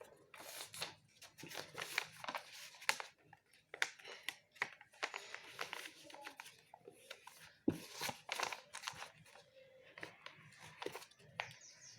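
A sheet of paper rustling and crinkling in short, irregular crackles and scrapes as it is folded and creased into a paper plane.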